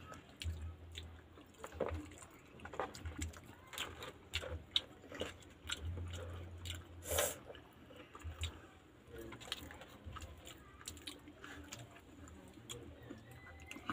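People chewing and biting pizza close to the microphone: irregular soft mouth clicks and smacks, with one brief louder noise about seven seconds in.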